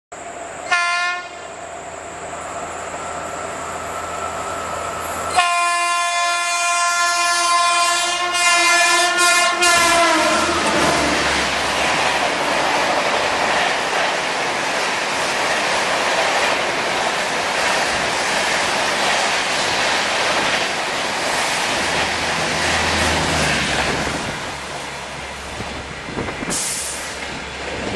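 Shatabdi Express passing through a station at speed. The locomotive horn sounds in two long blasts, the second louder and dropping in pitch as the engine goes by. Then the coaches rush past with a dense clatter of wheels on rail that fades near the end.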